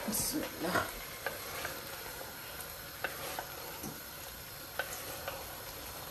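Minced lamb and potatoes sizzling in oil in a cooking pot while a spoon stirs them, with scattered clicks of the spoon against the pot and a few louder knocks in the first second.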